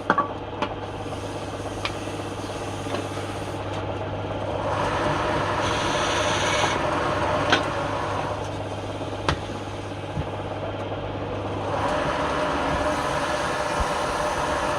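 Wood lathe running with a steady low hum while something rubs against the spinning wood in two longer stretches, the first about a third of the way in and the second from about four-fifths through. A few light clicks are scattered between them.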